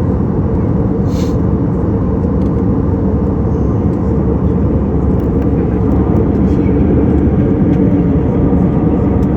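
Steady low rumbling noise inside an airplane cabin in flight: engines and airflow.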